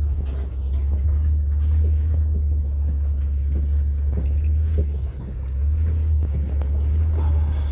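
Low, steady rumble of a 2008 Nissan Quest minivan driving along a country road, heard from inside the cab. It dips briefly about five seconds in before settling back.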